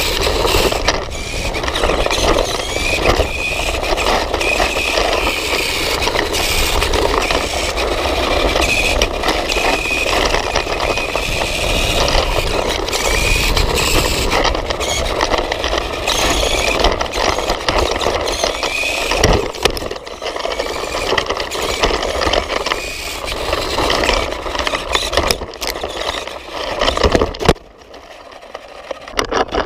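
Nikko RC motorcycle running, heard from a GoPro mounted on the bike itself: its electric motor and gears whine, rising and falling in pitch, over continuous road noise and frequent small knocks. The noise drops off sharply for about two seconds near the end, then picks up again.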